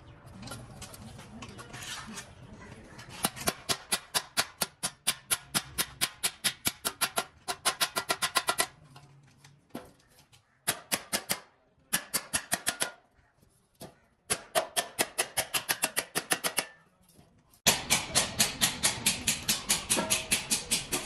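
Rapid series of sharp taps or strikes, about five a second, in runs of a few seconds broken by short pauses.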